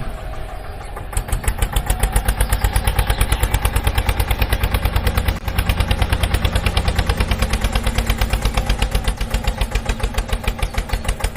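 Tractor engine running with an even, rapid thumping of about six beats a second.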